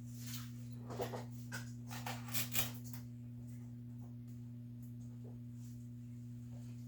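A steady low electrical hum with a few light clicks and rustles in the first three seconds, then only the hum.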